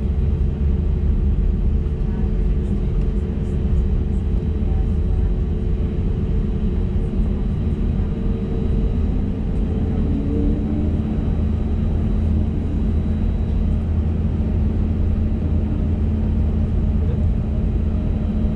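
Cabin rumble of an Airbus A320neo taxiing, its CFM LEAP-1A engines running at low thrust, heard from a window seat near the front. Steady and loud, with a hum that drops to a lower pitch about ten seconds in.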